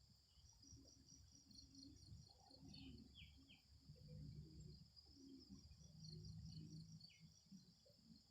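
Faint, steady pulsing chorus of insects chirping, with a few short falling bird chirps and some low rustling.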